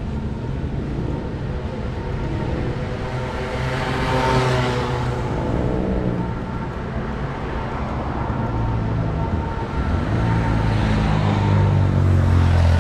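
City street traffic: a steady low rumble of motor vehicles, with one vehicle passing close about four seconds in and a heavier low engine hum growing louder near the end.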